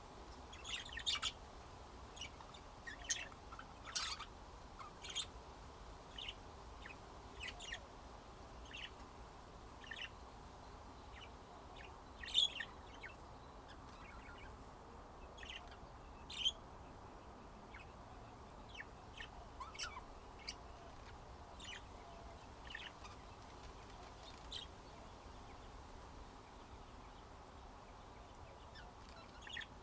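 Budgerigars chirping: short, sharp chirps at irregular intervals, thinning out and stopping a few seconds before the end.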